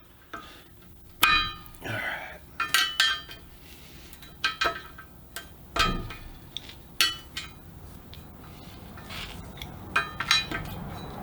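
Scattered metal clinks and clanks, several of them ringing, from tools and valve-stem parts knocking against a truck wheel rim while a bolt-in clamp-style valve stem is taken out.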